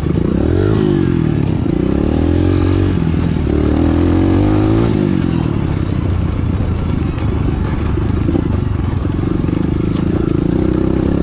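Enduro motorcycle engine running under way, its pitch rising and falling several times over the first five seconds as the throttle is worked, then holding steadier.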